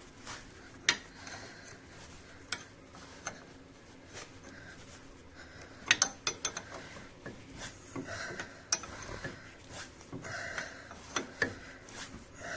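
Metal hand tools clinking and clicking: scattered sharp knocks and clinks, coming thickest about halfway through.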